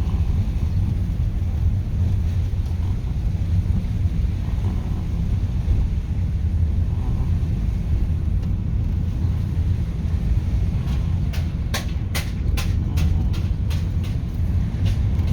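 Car driving, a steady low engine and road rumble. A quick run of sharp clicks or rattles comes about eleven seconds in.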